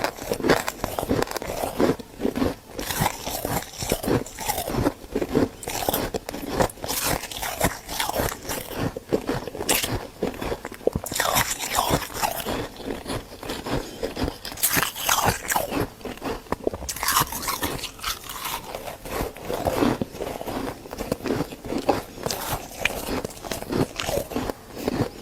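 Close-up biting and chewing of freezer frost: a steady run of squeaky, crunchy bites and chews.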